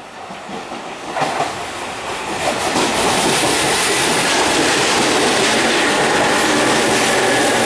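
Electric commuter train running in alongside the platform. Its noise grows over the first three seconds, then holds as a steady, loud sound of wheels running on the rails.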